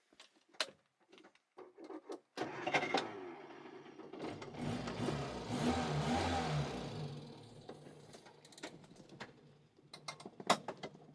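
Clicks of the key and dashboard switches, then the Wolseley 1100's four-cylinder engine cranks and starts about two and a half seconds in. It picks up briefly and settles to a steady idle, with a few more clicks near the end.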